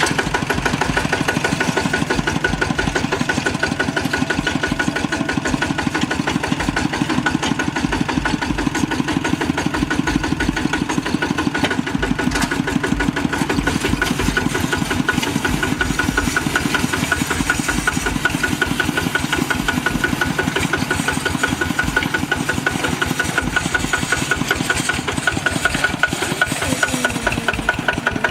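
Kubota RT single-cylinder diesel engine on a two-wheel hand tractor, running steadily with a fast, even firing rhythm.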